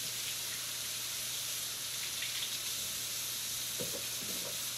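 Chicken pieces sizzling steadily as they sear in a hot grill pan, cooking in a dry spice rub with no oil.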